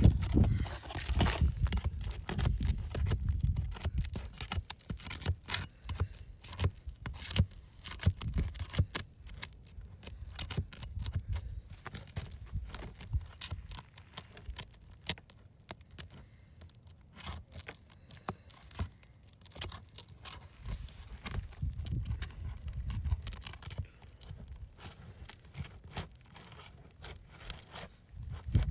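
A roof snake scraping and prying under stiff asphalt shingles, with irregular crackling, scraping and tearing as the stuck seal strip is worked loose. The shingles are brittle and tear instead of lifting free, a sign that they cannot be repaired.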